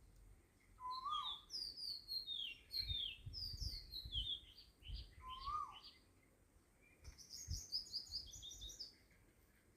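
Birds chirping in many short, quick high notes, with a fast trill about seven seconds in. A lower call that rises and falls comes twice, about four seconds apart.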